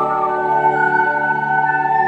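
Ocarina holding one long, steady note over an accompaniment of sustained chords and bass.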